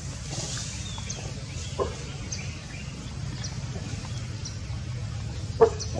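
Outdoor ambience: small birds chirping briefly and high-pitched, here and there, over a steady low hum, with a sharp knock near the end.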